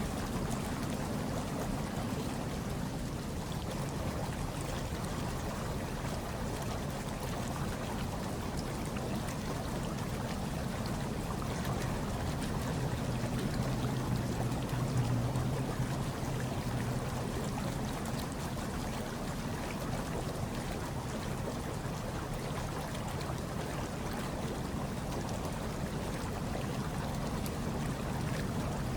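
Hot tub water churning and bubbling steadily, with a low hum underneath that swells slightly about halfway through.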